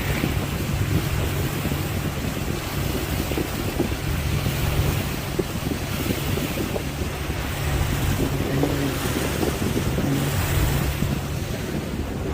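Wind buffeting the microphone on a motorboat under way, over the steady low hum of its motor and the rush of water.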